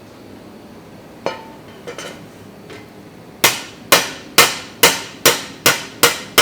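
Hammer blows on the thin steel of a frying pan blank being forged: a single blow, a couple of light taps, then a steady run of about eight blows, roughly two a second, each ringing briefly. Underneath is the steady noise of extraction fans and a gas forge.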